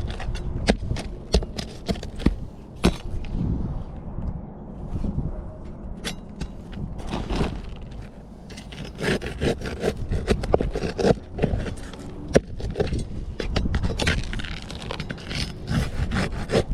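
Irregular scraping and rubbing broken by many sharp knocks and clicks, quieter for a few seconds in the middle and busier again after that.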